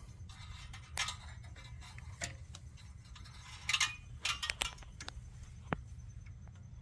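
Scattered light clicks and small metal clinks as the control cables are hooked back onto a snowblower's small-engine carburetor, with one brief ringing tick near the end.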